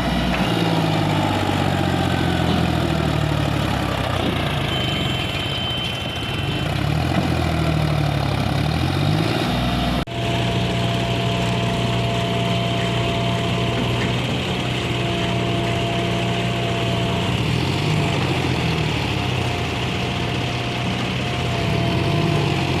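Tractor or backhoe diesel engine working, its speed rising and falling under load. About ten seconds in it cuts abruptly to an engine running more steadily, with a faint steady whine above it.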